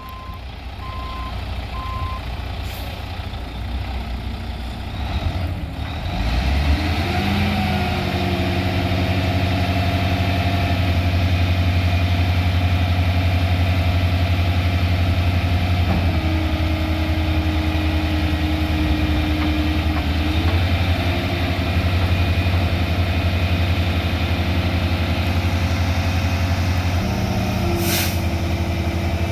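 A 2003 Volvo VHD truck's Volvo D12 diesel engine running, getting louder about six seconds in with its pitch rising just after and shifting a few more times. Three short beeps sound at the start, and a brief hiss of air comes near the end.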